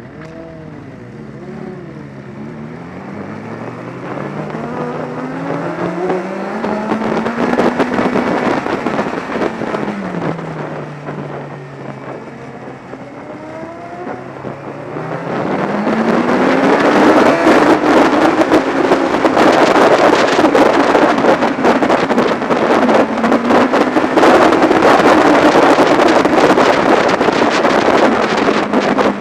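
Inline-four motorcycle engine accelerating through several gears, its note climbing in repeated rises, then easing off about ten seconds in. From about halfway it pulls hard again, with loud wind rushing over the microphone on top of the engine to the end.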